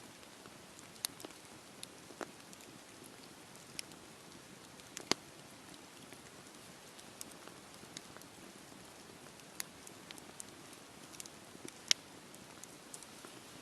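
Wood fire crackling in a fireplace: a soft steady hiss with irregular sharp pops and snaps, the loudest about five seconds in and again near the end.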